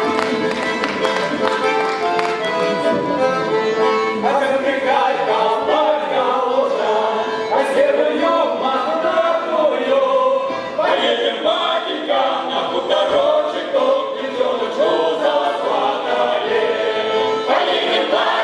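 Cossack folk song ensemble starting a song: about four seconds of held instrumental chords, then a group of voices comes in singing in chorus.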